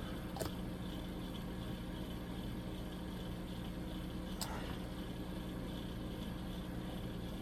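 Steady low background hum with a faint hiss, broken by two faint sharp clicks about half a second and four and a half seconds in.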